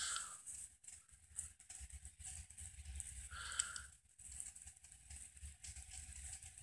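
Faint, scattered pops and crackle of fireworks, with a brief louder burst at the start and a sharper pop about three and a half seconds in.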